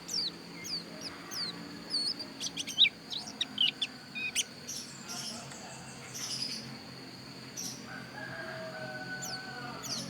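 Pleci dakun white-eye singing: short, high, downward-sweeping notes repeated about twice a second, with a quick burst of twittering in the middle. A lower call sounds near the end.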